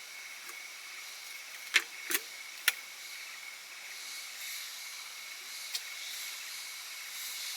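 Steady hiss of rain with a thin, steady high tone running under it. Three sharp knocks about two seconds in, and a fainter one later.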